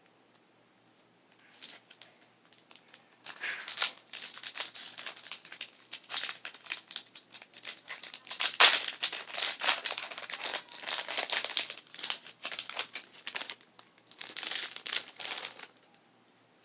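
Foil Pokémon card booster pack wrapper being torn open and crinkled, in irregular bursts of crackling that start about a second and a half in and stop shortly before the end.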